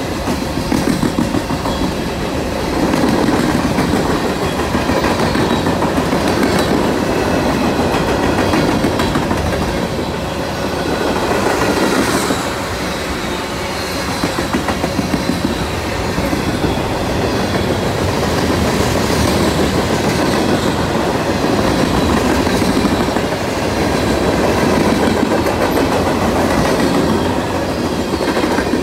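Freight cars of a CSX manifest train (boxcars, tank cars and covered hoppers) rolling past at steady speed: a continuous rumble of steel wheels on rail with repeated clickety-clack as the wheels cross rail joints.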